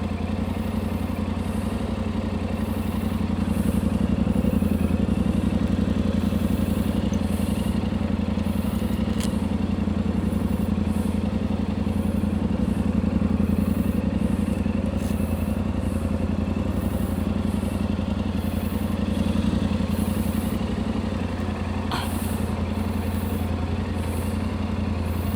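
Motorcycle engine idling steadily, holding one even pitch without revving.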